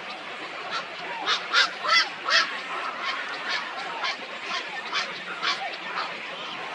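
Birds calling: four loud, short calls about a second in, then softer ones about twice a second, over a steady background chatter of other birds.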